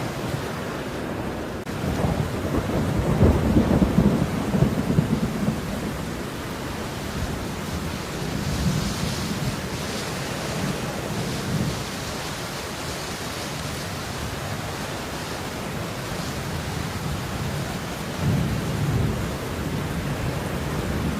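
Steady falling rain, an even hiss, with low rumbling swells about two to five seconds in and again near the end.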